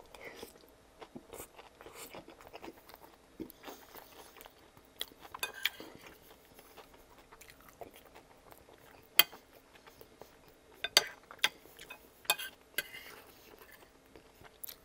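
Close-miked chewing of a mouthful of pasta and chicken in sauce, with wet mouth sounds and sharp clicks, and a metal fork touching the plate near the end.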